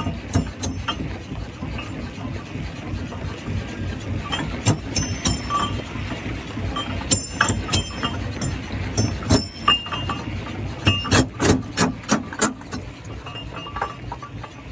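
Stone crusher running with a steady low rumble, under irregular sharp cracks and clanks of rock striking and breaking. The impacts come in flurries, the busiest a little past two-thirds of the way through.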